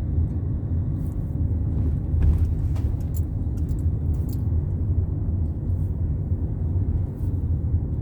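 A car driving along, with a steady low rumble of engine and road noise and a few faint ticks.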